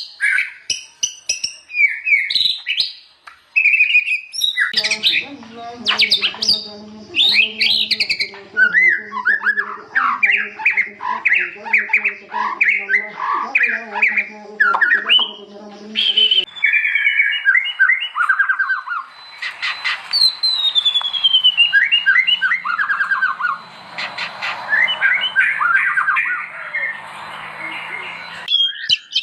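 White-rumped shama (murai batu) singing a loud, varied song of rapid repeated notes, chattering trills and falling whistles. The song comes in separate recordings that change abruptly about 5 and 16 seconds in, with a low steady hum underneath from about 5 to 16 seconds.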